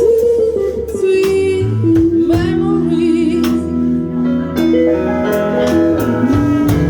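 Live jazz band playing: bass and keyboard chords under a melody line that slides and wavers in pitch, with regular cymbal and drum strokes.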